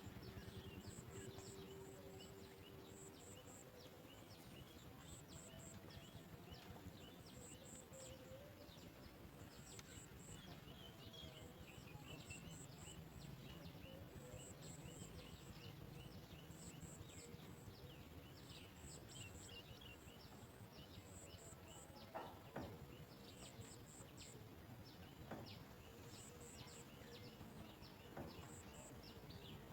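Faint chirping of small birds, many short high calls all through, with small groups of very high pulses repeating every second or two. A few sharp knocks come in the second half.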